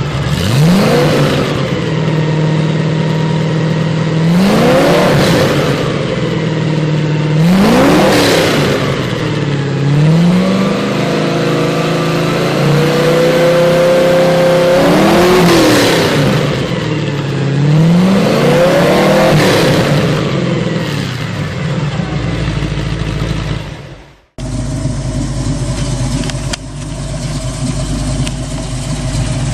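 A muscle car engine revving, its pitch climbing and dropping back about six times. After a sudden cut about three-quarters of the way through, an engine runs at a lower, steadier note.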